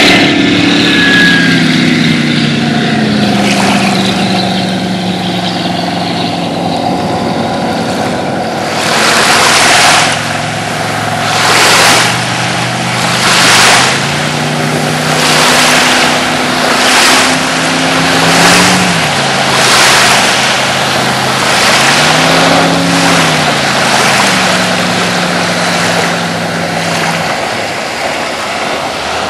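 Bayliner speedboat engine throttling back, its pitch falling over the first few seconds, then running at low revs with two brief rises in revs. From about a third of the way in, repeated rushes of splashing water noise come every second or two. Near the end the engine note drops away, leaving the water noise.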